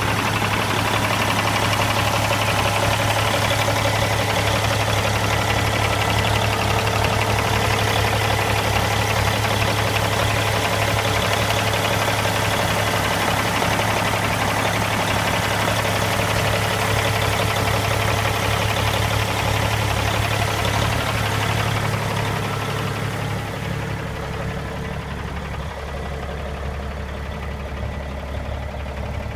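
Rebuilt 600-horsepower Cummins ISX inline-six diesel in a Kenworth W900L running at a steady idle, heard with the hood open. About three-quarters of the way through it turns quieter and more muffled.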